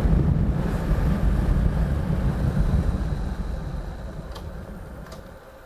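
Motorcycle on the move heard from the rider, a low rumble of wind and road noise on the microphone that fades steadily as the bike slows, with a couple of light clicks near the end.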